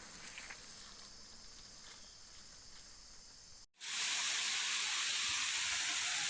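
Steady rushing of a waterfall that starts abruptly about three and a half seconds in. Before that there is only faint outdoor noise that fades away.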